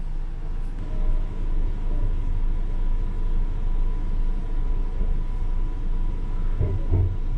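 Interior of a TCDD E23000 electric multiple unit running at speed: a steady low rumble of the wheels on the rails under a thin, steady high whine, with a couple of heavier thumps near the end.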